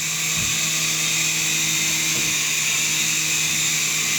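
Small radio-controlled helicopter flying, its electric motor and rotor making a steady high-pitched whir.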